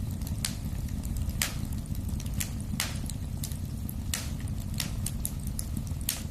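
Wood fire burning in a fireplace: a steady low rumble under irregular crackling, with a sharper pop every second or so.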